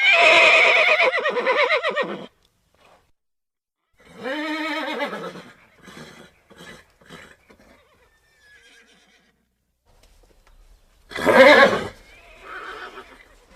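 Horses whinnying: a long, loud, quavering neigh, then a shorter whinny about four seconds in trailing off into a run of short pulses, and a loud brief call near the end.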